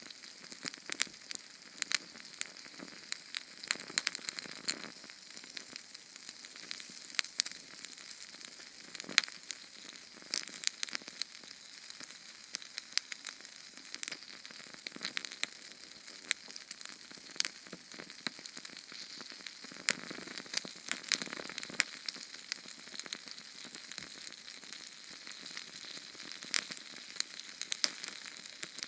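Small Sterno canned-fuel flame burning: a steady high hiss with frequent sharp, irregular crackles and pops.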